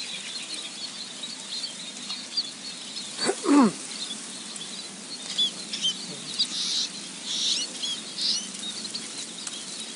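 Many small birds chirping in quick, high, overlapping notes. About three seconds in comes one loud, short call that falls steeply in pitch. A few brief fluttering or rustling bursts follow in the second half.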